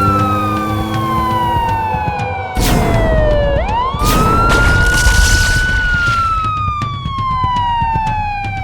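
Siren wailing in slow cycles, each rising quickly and then falling slowly over about three seconds, with a brief burst of noise shortly before the second rise and a longer one just after it.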